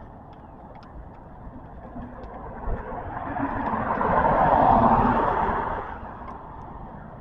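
A car driving past, its noise building to a peak about four to five seconds in and then fading away.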